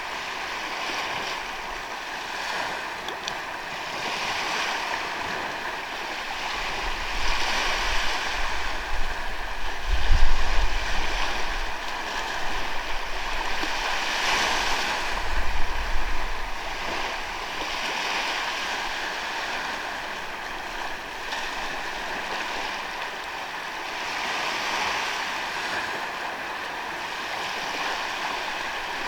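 Sea waves washing onto a sandy beach, the surf swelling and easing every few seconds. About a third of the way in, wind buffets the microphone in gusts for several seconds.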